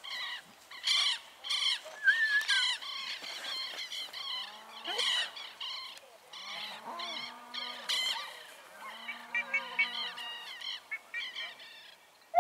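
Birds calling: a run of repeated short, harsh chirping calls, often overlapping, with brief pauses between bursts.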